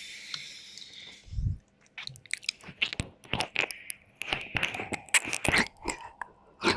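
Wet mouth sounds and licking close to the microphone: after a soft hiss and a low thump in the first second and a half, a dense, irregular run of sharp wet clicks and smacks.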